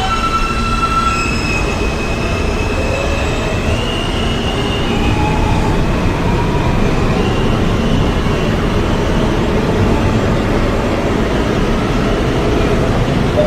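R160A subway car pulling away and gathering speed: the propulsion's electric whine steps up in pitch over the first few seconds, over a steady heavy rumble of wheels on rail.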